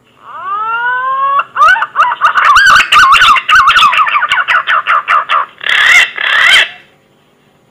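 Green pigeon (punai) whistled call used as a hunting lure: a rising whistle, then a fast run of warbling whistled notes, about five a second, ending with two harsher notes. A faint electrical hum sits underneath.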